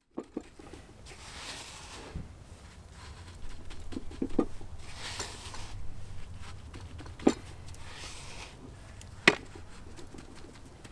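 A few sharp clicks or knocks, the last loud one near the end, among soft rustling: things being handled.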